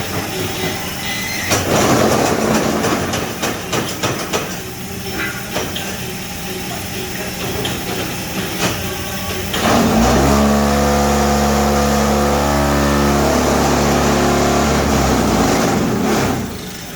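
Paving-block press working. Irregular clattering and knocking for the first ten seconds or so, then a loud, steady machine hum starts abruptly and cuts off near the end: the vibration table compacting the block mix.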